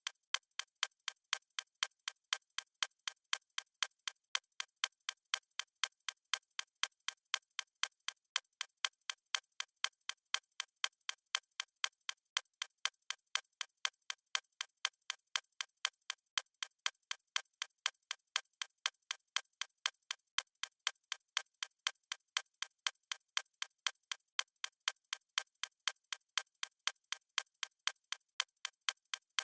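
Fast clock-ticking sound effect of a stopwatch: crisp, evenly spaced ticks, several a second, running without a break.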